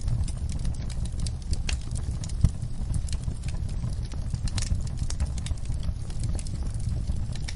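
Wood fire in a fireplace crackling: irregular sharp pops and snaps over a steady low rumble of the flames, with one louder pop about two and a half seconds in.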